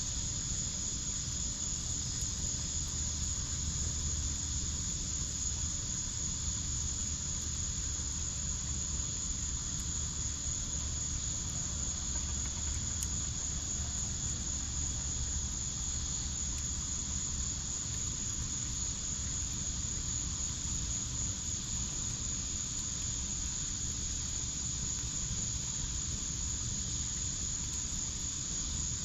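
Crickets chirring in a steady, unbroken high drone over a low, even rumble, with a few faint crackles from the wood fire now and then.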